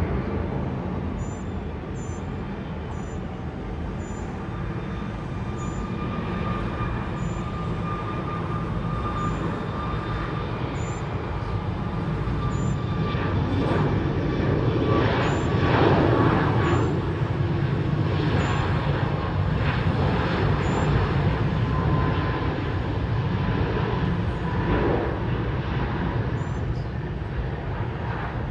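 Boeing 737 MAX 8 airliner's CFM LEAP-1B jet engines, a steady rumble with a faint whine that grows to its loudest about halfway through and then slowly fades as the jet passes.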